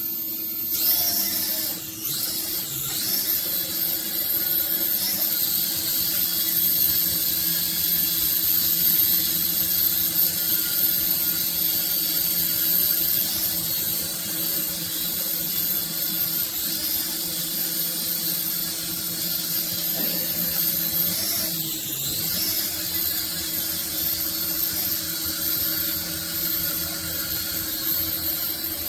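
Toy RC helicopter's small electric motors and rotor blades whirring steadily in flight, the pitch briefly swooping down and up twice as the rotor speed changes.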